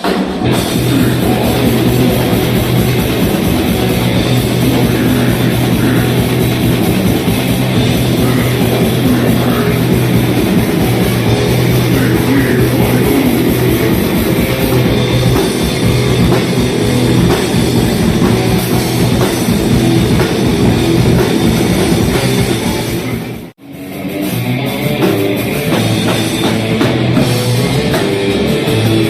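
Death metal band playing with distorted electric guitars and a drum kit. The music cuts out abruptly for a moment about three-quarters of the way through, then starts again.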